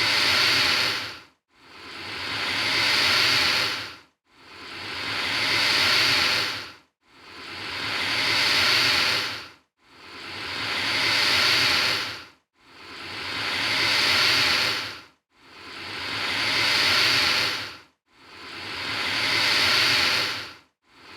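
Alligator hissing over and over. Each hiss swells and then cuts off sharply, about one every three seconds.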